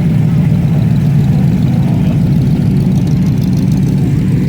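Car engine idling with a loud, steady low rumble.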